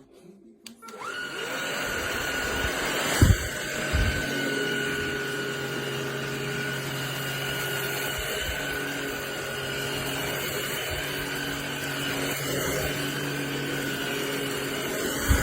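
MBYULO 600W cordless stick vacuum switched on about a second in, its motor spinning up with a rising whine and then running steadily while vacuuming crushed Cheerios off carpet. Two sharp knocks come about three and four seconds in.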